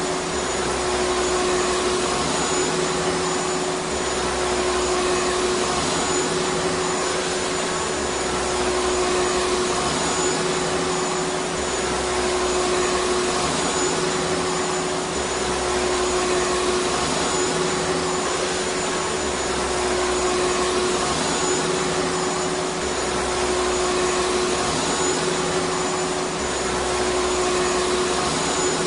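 Vacuum cleaner motor running steadily: a loud, even rush of air with a constant mid-pitched whine on top and a faint high whine above it.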